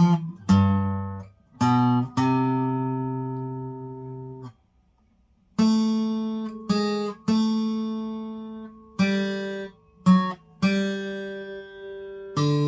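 Acoustic guitar playing a slow melody one plucked note at a time, each note left to ring and fade. The playing stops for about a second near the middle, then the melody resumes.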